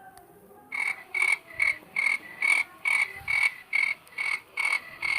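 Sound effect of short croaking calls, about a dozen evenly spaced at roughly two and a half a second, starting just under a second in.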